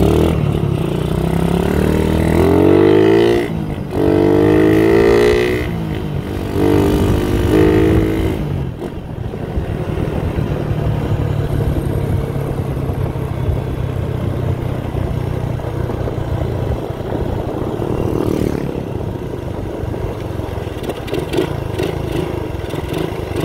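Suzuki Raider 150 single-cylinder four-stroke engine accelerating through the gears, its pitch climbing and breaking at two upshifts in the first eight seconds. It then runs steadily at cruising speed.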